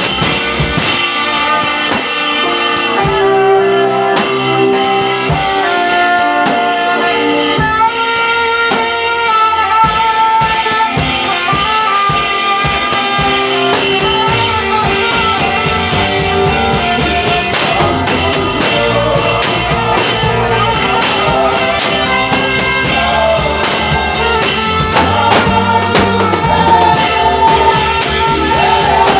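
Gospel saxophone playing a slow melody of long held notes over a backing band with guitar and drums.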